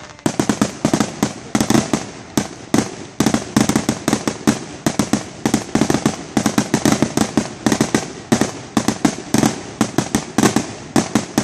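Aerial fireworks going off in a rapid, continuous barrage: sharp bangs several times a second, overlapping, with echo between them.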